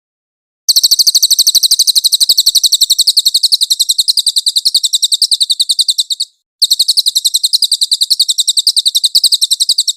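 Cililin bird singing: a fast, high-pitched trill of sharp chips, about nine a second, in two long bursts with a short break just past the middle.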